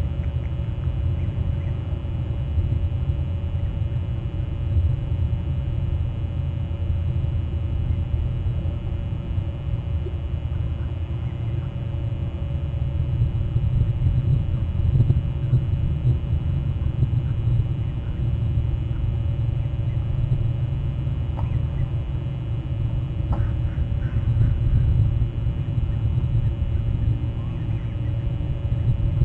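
A steady low rumble that swells and eases a little, with a few faint short calls about three-quarters of the way through.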